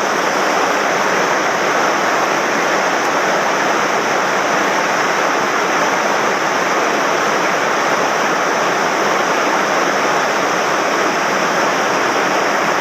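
Swollen mountain stream rushing over rocks, a steady, loud rush of water running high after heavy rain.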